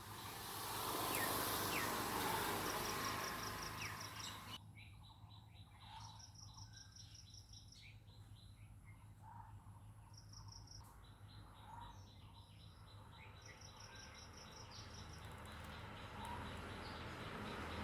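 Outdoor insect chorus: an insect, cricket-like, trilling in short high pulsed bursts again and again, with scattered short bird chirps. For the first few seconds a louder rushing noise lies over it and stops abruptly.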